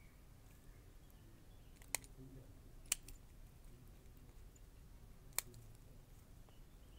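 Bonsai scissors snipping small shoots, three sharp snips: two about a second apart, then one more a couple of seconds later.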